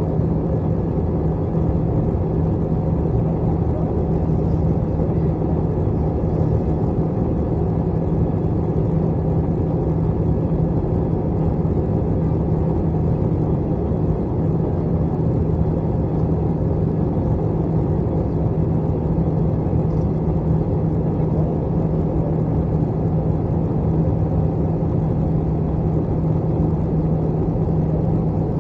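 Steady cabin drone of an Airbus A321 heard inside the cabin: the jet engines and the noise around the fuselage make an even low rumble with a constant low hum that stays unchanged throughout.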